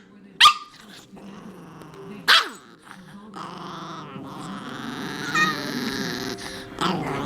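Jack Russell terrier puppy vocalising: two short, sharp yips about half a second and two seconds in, then a long, drawn-out grumbling noise that grows louder, with a brief high whine partway through.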